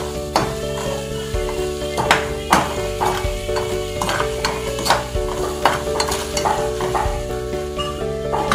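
Food sizzling in oil in a steel wok while a metal ladle stirs it, scraping and clinking against the pan at irregular intervals, over background music.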